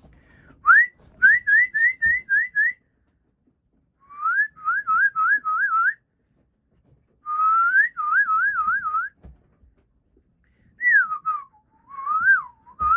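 A person whistling to call a bird, in four short phrases: a run of quick rising whistles, then wavering warbles, a long rise into a warble, and a few falling and wavering notes near the end.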